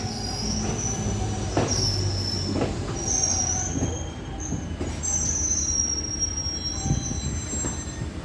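Train wheels squealing against the rails: high, wavering squeals over the steady rumble of the moving train. A couple of knocks come about a second and a half and two and a half seconds in.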